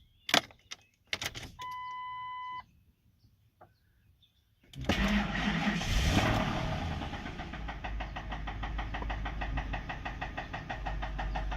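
A few clicks and a steady one-second chime, then the Ford F-150's 5.4-litre V8 starts about five seconds in and runs with a fast, steady knocking: rod knock from the engine having been run low on oil.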